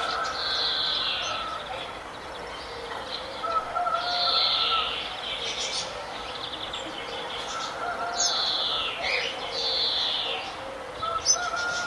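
Several birds singing: a high, falling, trilled phrase repeats about four times, over lower held whistled notes from other birds.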